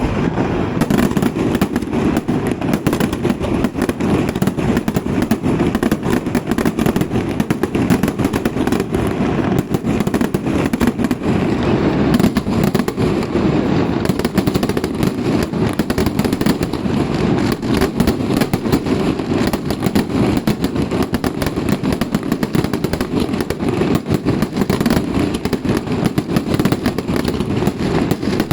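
Festival fireworks: a long, rapid barrage of firecracker bangs, so dense that they run together into a continuous crackling rattle.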